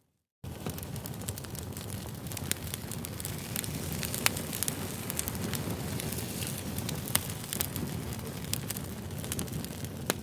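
Wood campfire burning, with frequent sharp crackles and pops over a steady rushing noise; the sound comes in abruptly about half a second in.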